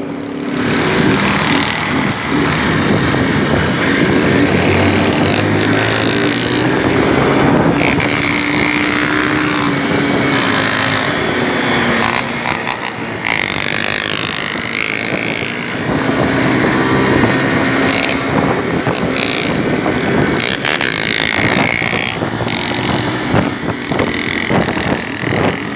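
Motorcycle engine running under way, its pitch drifting up and down a little with the throttle, over a steady rush of riding noise.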